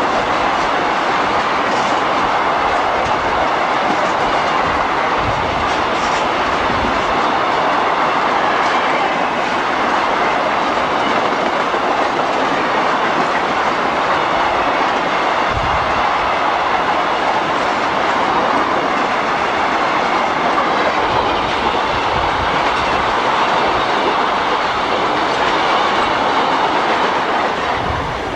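Freight train cars rolling past on the rails: a steady, loud rush of wheel-and-rail noise with occasional low thumps.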